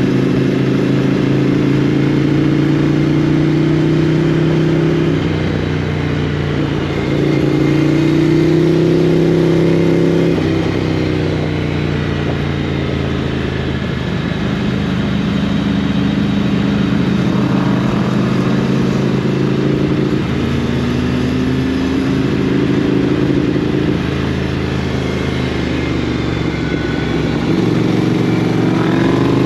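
Motorcycle engine running steadily at speed. Its pitch holds level for a few seconds at a time, then steps or slides up and down as the revs change.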